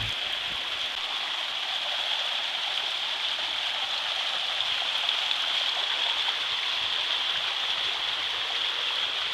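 Stream water running over rocks, a steady rush of flowing water.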